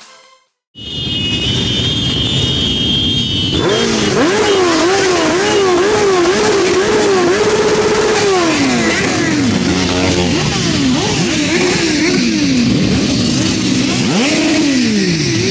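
Several motorcycles revving their engines, throttles blipped up and down again and again, with the pitch falling away and climbing back. A steady high tone sounds in the first few seconds before the revving starts.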